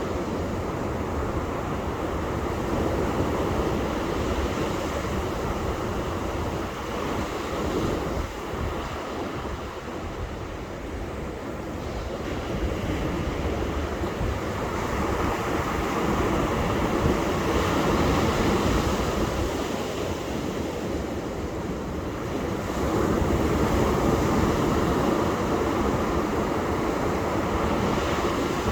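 Ocean surf washing onto a beach, a continuous rush that swells louder twice in the second half as waves break, with wind rumbling on the microphone.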